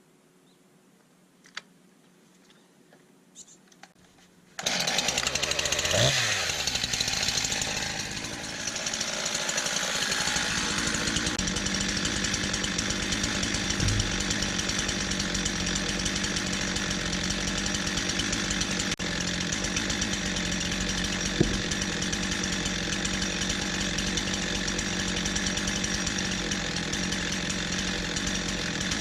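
A few faint clicks, then about four and a half seconds in a gasoline chainsaw comes in suddenly and loudly and keeps running steadily.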